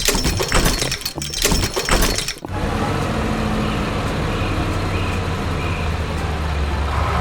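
Crashing, shattering sound effect of breaking rock lasting about two and a half seconds, then a steady low rumble of a heavy vehicle engine running.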